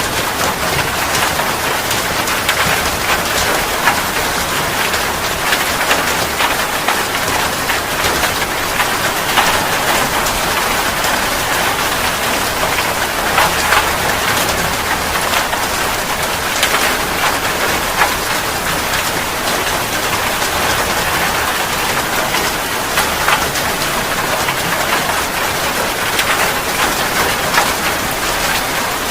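Steady rain falling on a surface: a dense, even hiss with many sharp drop impacts throughout.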